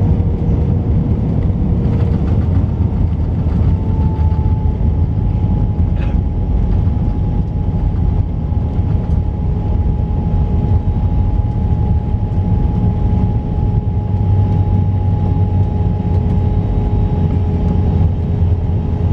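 Airbus A321 cabin noise: the jet engines give a steady whine with two held tones over a loud low rumble, as the airliner arrives on the ground.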